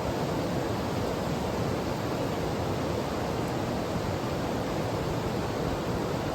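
Mountain stream rushing steadily, an even, unbroken noise of flowing water.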